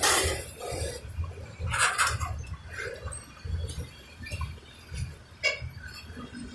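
Irregular metallic clinks and clanks over an uneven low rumble, the loudest strikes about two seconds in and again near the end.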